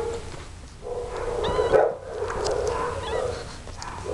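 Young kittens mewing: a few short, high, thin cries, clearest around the middle.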